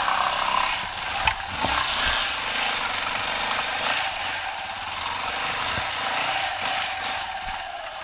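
Off-road motorcycle engine revving hard under load with a rasping note, as a dirt bike works up a steep, loose slope.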